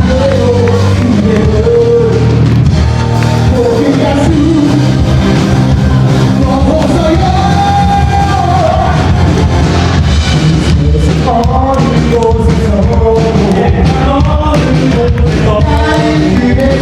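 Live band music: a singer carrying a sung melody over amplified band instruments, played loud and without a break.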